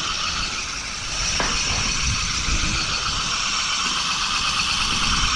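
Wind rushing over the microphone of a rider's camera together with the rolling rumble of the trolley running along a roller-coaster-style zipline track; a steady rush and hiss.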